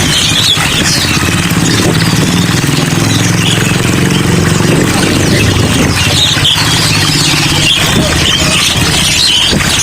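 Many caged songbirds chirping and twittering at once, with a motor engine running underneath for most of the stretch.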